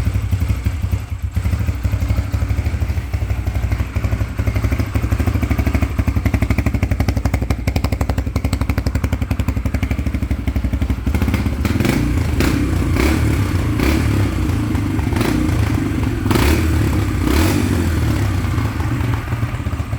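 Yamaha TT-R125's single-cylinder four-stroke engine running steadily at idle. It sounds fuller from about halfway, and a few sharp clicks come in the second half.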